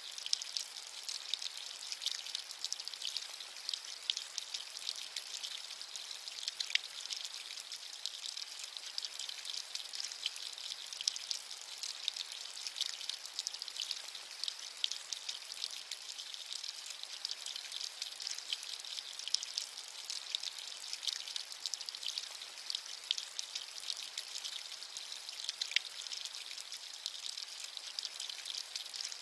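Steady rainfall, a continuous hiss of many small drops with occasional sharper drop ticks.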